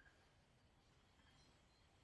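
Near silence in a lull between bursts of birdsong: faint outdoor background, with one brief, faint bird note at the very start.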